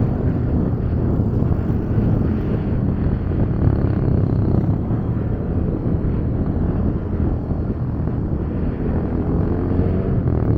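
Motorcycle taxi's engine running at a steady cruise, a low rumble mixed with wind rushing over the microphone.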